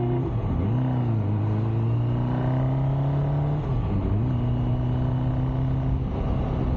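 MV Agusta Brutale motorcycle engine running in city traffic. The engine dips and picks up again about half a second in, climbs slowly in pitch, drops off a little past halfway, then holds steady.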